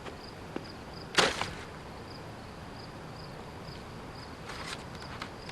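Crickets chirping steadily at about two or three chirps a second. A short, loud swish comes about a second in, and a fainter rustle near the end.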